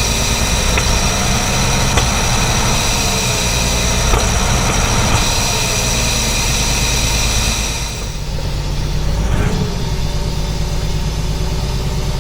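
AC Buckland's engine idling steadily and quietly. A higher steady hiss or whine laid over it stops about eight seconds in, leaving the low idle and a steady hum.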